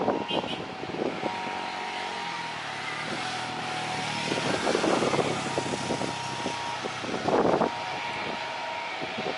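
Road traffic going past, with louder passes about halfway through and near the end. A steady high whine sits under it throughout.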